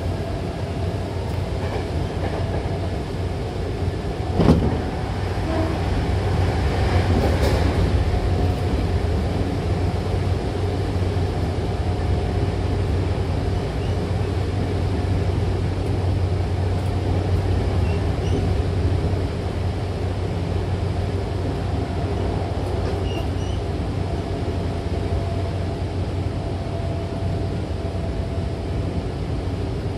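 Hankyu electric commuter train running, heard from inside the passenger car: a steady low rumble of wheels on rails with a faint constant hum. A single sharp knock comes about four and a half seconds in.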